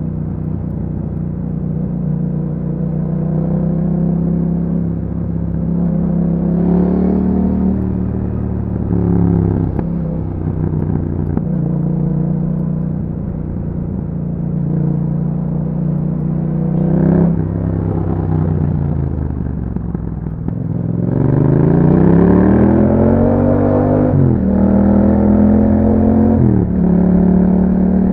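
2021 Yamaha MT-07's 689 cc parallel-twin engine, breathing through an Akrapovic exhaust with a dB killer, running on the road. It holds a mostly steady cruising note with a few brief throttle changes, then revs up in a long rising sweep about three quarters of the way through, broken by two sharp drops in pitch near the end as it shifts up.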